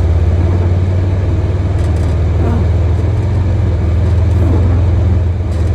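Engine of a Polaris Ranger Crew 1000 XP side-by-side running as the vehicle drives, a steady low drone.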